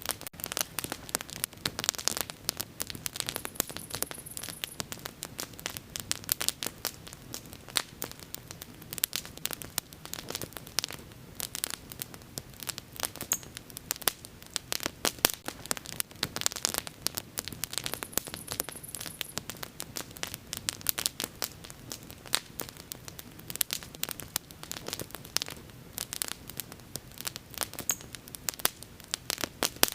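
Wood bonfire crackling and popping: dense, irregular sharp snaps over a soft steady hiss of burning.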